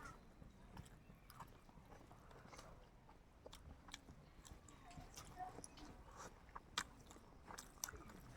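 Faint chewing and biting of people eating chicken, with scattered small mouth clicks and smacks.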